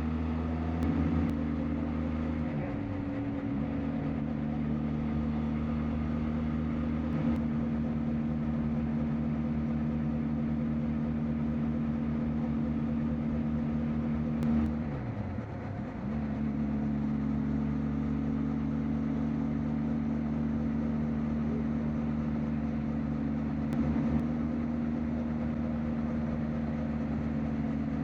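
Benelli TRK 502X parallel-twin engine running at a steady cruise. Twice its pitch drops briefly and comes back up, about three seconds in and again about halfway through.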